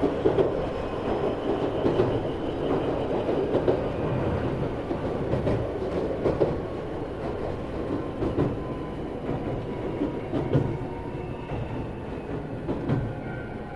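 Running noise inside a motor car of an Iyotetsu 3000-series electric train under way between stations: a steady rumble of wheels on rail with an occasional clack over rail joints.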